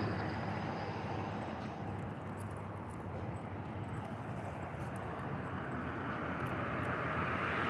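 Road traffic noise from passing vehicles, fading a little and then building again toward the end as another vehicle approaches.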